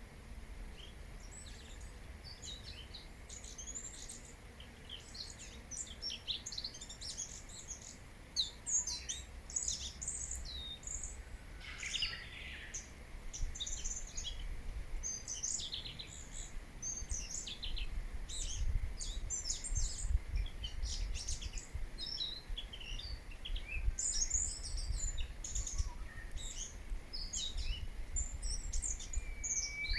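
Small songbirds chirping and twittering, many quick high calls overlapping and busiest from about six seconds in, over a steady low rumble.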